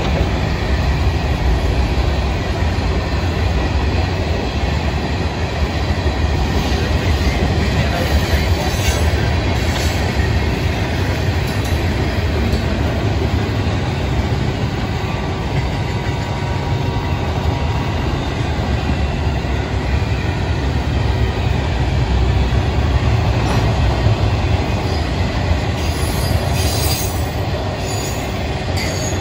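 FEC freight train's covered hopper cars and then intermodal container flatcars rolling past: a steady, loud rumble of steel wheels on rail.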